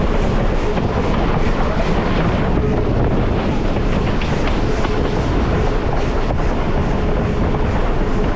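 Steam-hauled passenger train rolling along the track, a steady rumble with wheels clattering over the rails.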